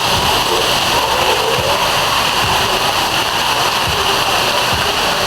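Artificial waterfall pouring over rocks into a swimming pool: a steady, loud rush of falling water.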